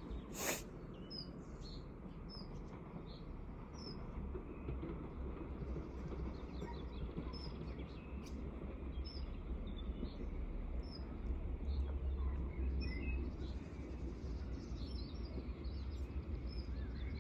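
Small birds chirping on and off throughout, over a steady low rumble that grows a little louder after the middle. A single sharp click about half a second in.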